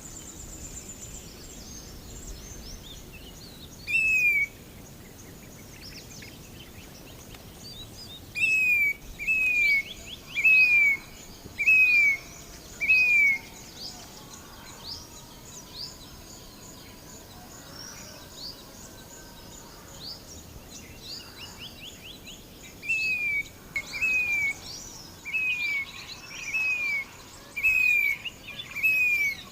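Grey-bellied cuckoo calling: loud single notes falling in pitch, each about half a second long and repeated about once a second in runs. One note comes early, a run of five follows, and a longer run comes near the end, with fainter chirps of other birds in between.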